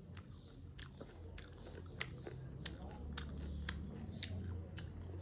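Close-up crunchy chewing of chatpate, a spicy puffed-rice snack: crisp crunches about twice a second.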